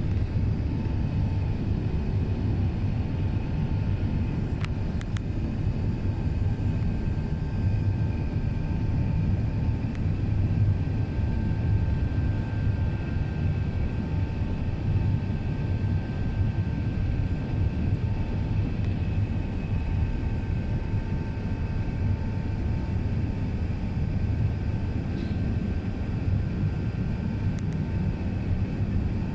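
Airbus A380 cabin noise in flight: a steady low rumble of the four jet engines and the airflow, with a faint steady whine above it.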